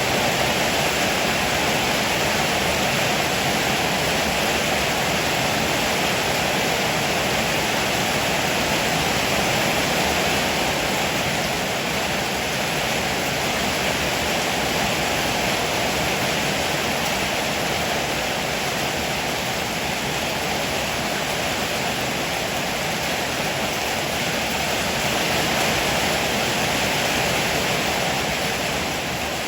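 Heavy rain pouring steadily, a dense, even hiss that holds level throughout.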